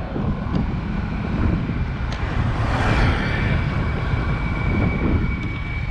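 Steady street traffic rumble, with a vehicle passing by about three seconds in and a thin, steady high whine from then on.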